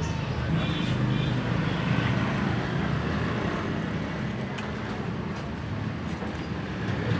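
Steady motor-vehicle rumble with a low hum, and a few faint clicks.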